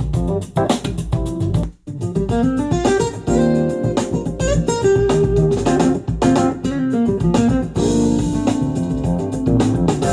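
Guitar-led music with a bass line played back through a portable Bluetooth speaker, with a brief drop in the sound a little under two seconds in.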